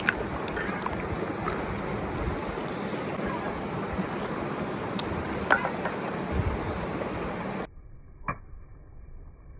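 River water rushing steadily, with a few sharp clicks over it. About three-quarters of the way through, the rushing cuts off abruptly to a much quieter background, and a single click follows.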